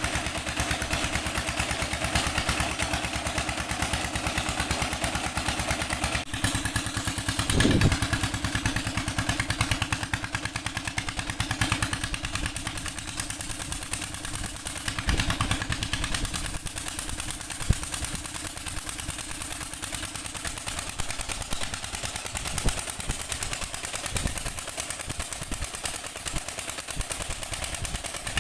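Old 16-horsepower Petter diesel engine running steadily, with an even, fast run of firing knocks.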